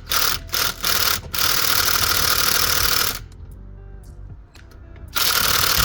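Power impact wrench run in a few quick blips, then held for about two seconds, then run again near the end, working loose bolts on the top end of a Mustang V8.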